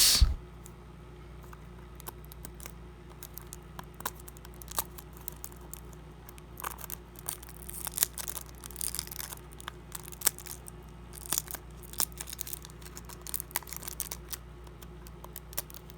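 Fingers picking and prying at the glued end flap of a small cardboard toy-car box: scattered small clicks, scratches and bits of cardboard tearing. The flap is stuck and hard to open.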